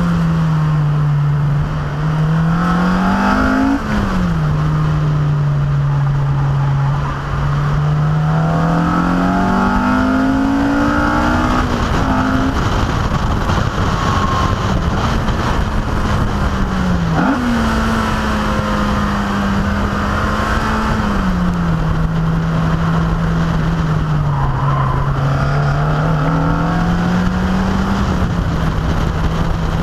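Car engine heard from on board while being driven hard on a winding road, its note rising and falling through the bends and gear changes, with a sharp change about four seconds in and again about seventeen seconds in. Wind noise rushes steadily underneath.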